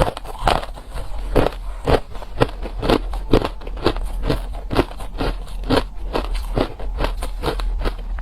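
Ice being chewed close to the microphone: sharp, crunchy bites at about two a second, steady throughout.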